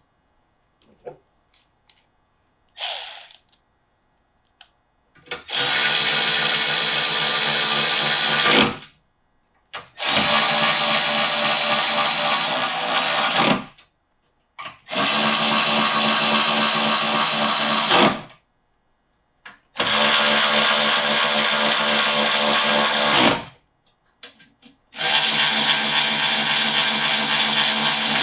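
A power drill runs in five steady bursts of about three to four seconds each with short pauses between them, driving rubber bumpers into threaded holes in a steel storage box. A few light clicks and a short scrape come before the first run.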